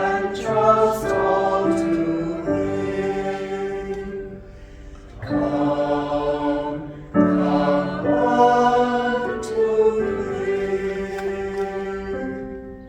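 Church choir singing a slow hymn in sustained phrases, with short breaks between them, ending on a held chord that fades away.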